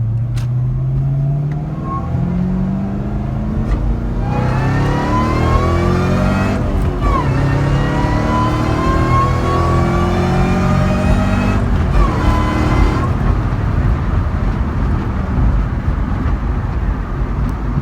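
A 2006 Ford Mustang GT's V8, breathing through JBA shorty headers and a Borla ATAK exhaust, accelerating hard through the gears. The revs climb, drop at a gear change about seven seconds in and again about twelve seconds in, then climb again, with a high whine rising along with the revs.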